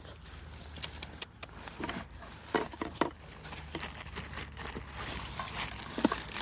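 Scattered, irregular small clicks and rustles over a steady low hum.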